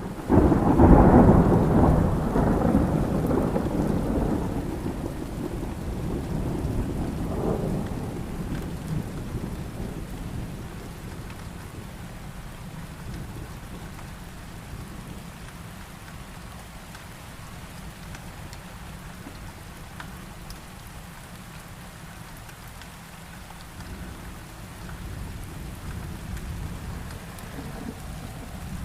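A loud thunderclap breaks about half a second in and rolls away slowly over about ten seconds, with a second swell of rumble around seven seconds in. Steady heavy rain runs underneath, and a fainter distant rumble rises again near the end.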